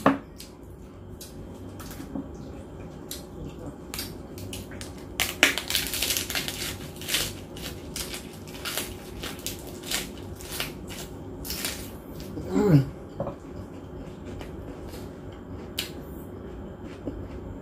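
Close-up chewing of a crisp lettuce leaf: a run of wet crunches, densest in the middle, with a short hummed "mm" that falls in pitch near the end.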